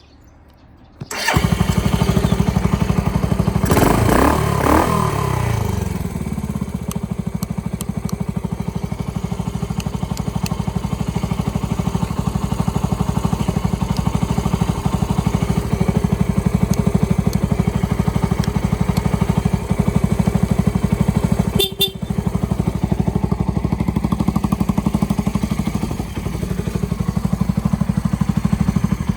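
Suzuki Grasstracker Big Boy's single-cylinder four-stroke engine starting about a second in, revved up and back down briefly, then idling steadily.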